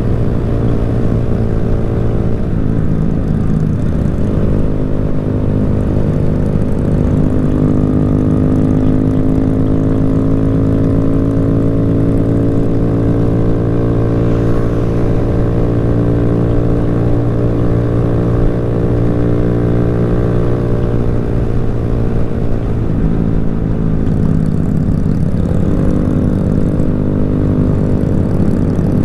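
Motorcycle engine running steadily at riding speed, its pitch shifting as the throttle changes a couple of seconds in and again near the end.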